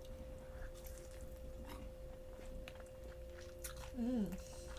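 Close-up mouth sounds of chewing and biting fried chicken, with wet clicks and crackles. There is a short hummed "mm" about four seconds in, over a faint steady hum.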